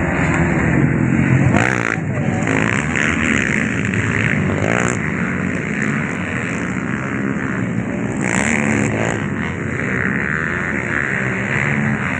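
Several dirt-bike engines running at a grasstrack and motocross race, revving up and down as the bikes ride.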